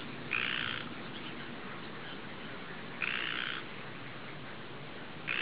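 A bird calling: two harsh calls of about half a second each, roughly three seconds apart, with another starting at the very end, over a steady low background hiss.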